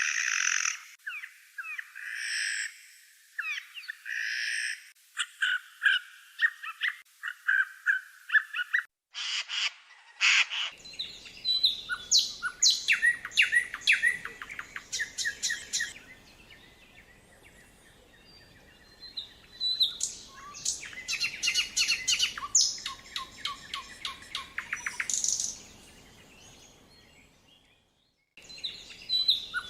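Songbirds of a May woodland singing together, many overlapping chirps, trills and fast rattling phrases. The song breaks off briefly twice where separate recordings are joined.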